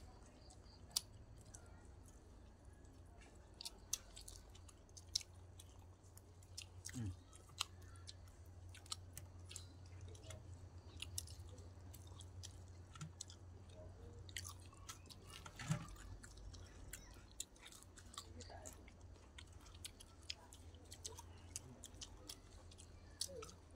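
Faint close-up chewing and biting by several people eating, with scattered crisp crunches of raw vegetables such as cucumber and long beans. A steady low hum runs underneath.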